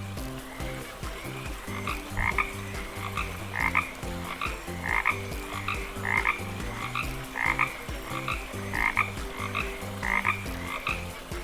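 Frog croaking over and over, with a louder call about every second and a half and softer calls between.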